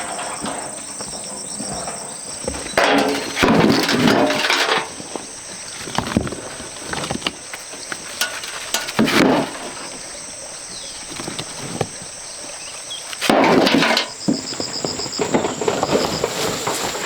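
Rocks and earth being shifted by hand, heard as a few loud scraping, knocking stretches of a second or two each with scattered clicks between them. Insects keep up a steady high-pitched drone behind.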